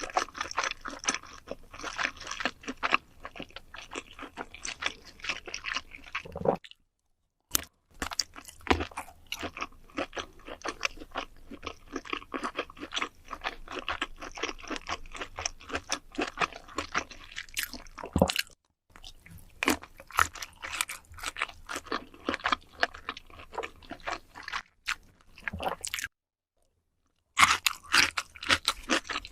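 A person chewing and biting food close to the microphone, with a steady run of crunchy, smacking chews. The sound drops out completely a few times for a moment.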